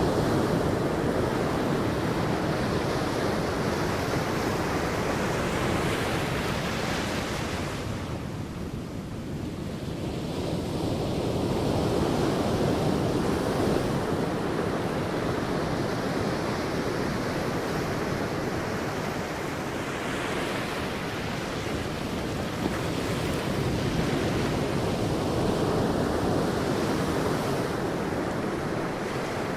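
Sea surf washing onto a beach, swelling and easing in slow waves, with a lull about eight seconds in before the next waves build.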